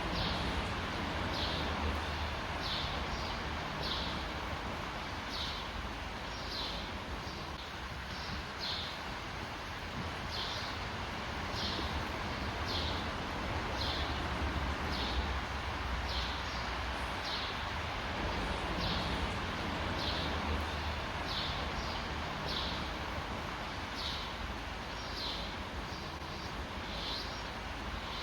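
Outdoor woodland ambience: a small bird chirping over and over, about once a second, over a steady noisy background with a low rumble of wind on the microphone.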